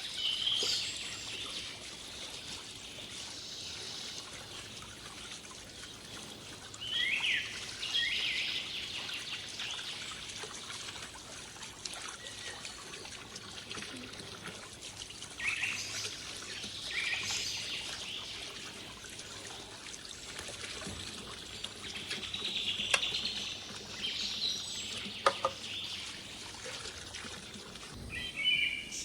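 Birds calling now and then with short chirps, over a steady hiss, with two sharp clicks a little past the middle.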